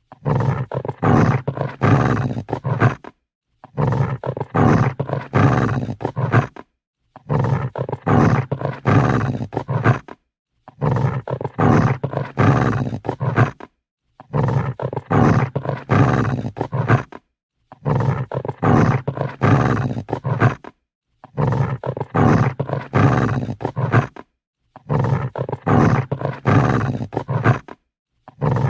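An angry dog growling in rough, pulsing bouts of about three seconds, each broken off by a short silence; the same growl repeats at even spacing about eight times, as a looped sound effect.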